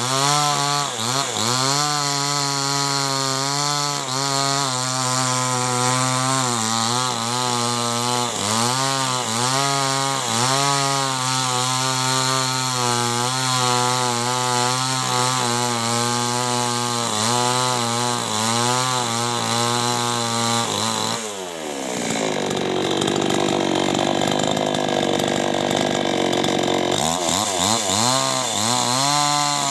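Two-stroke chainsaw running at high revs while cutting wood, its pitch wavering and dipping as the chain takes the load. About 21 s in the revs drop sharply and the engine tone gives way to a rougher noise for several seconds, then the revs climb back up near the end.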